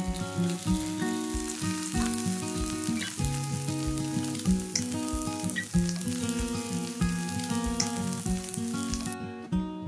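Egg-battered jeon (Korean pancakes) sizzling in oil on a flat griddle, the sizzle stopping suddenly about nine seconds in. Gentle music of plucked notes plays underneath.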